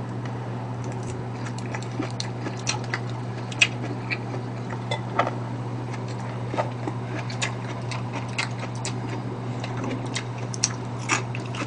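Close-up eating sounds: chewing and mouth smacks with scattered short clicks, a few a second, over a steady low electrical hum.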